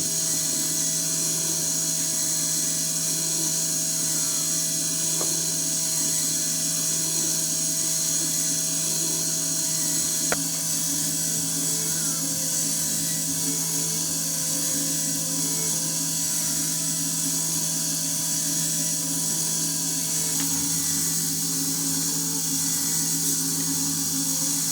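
Steady high whirring of a TECHING DM13 four-cylinder model engine kit running on its small electric motor, with one click about ten seconds in.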